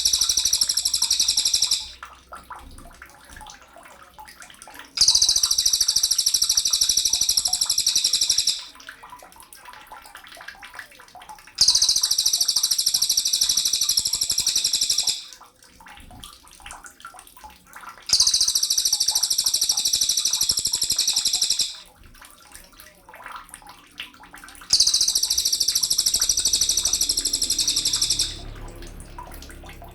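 Sogon songbird singing a clear, rapid high twittering song in bouts of about three and a half seconds, repeating every six to seven seconds with short quiet gaps between: five bouts in all, the first already under way.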